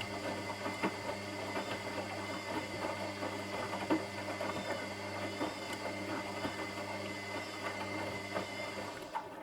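Washing machine running with a steady motor hum and irregular light knocks from inside the drum, then the motor cuts out and the machine falls quiet near the end.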